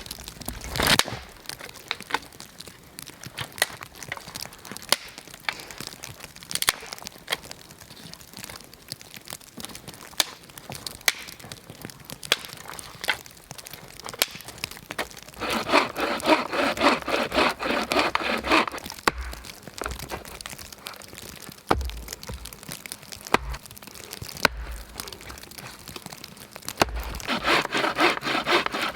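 Saw cutting wood in two spells of quick, even strokes, one about halfway through and another starting near the end, with scattered sharp cracks and snaps in between.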